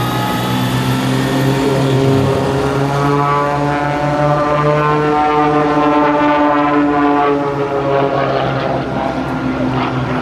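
Aerobatic propeller planes' piston engines and propellers droning loudly overhead; the engine note rises slightly, then falls in pitch over the last few seconds.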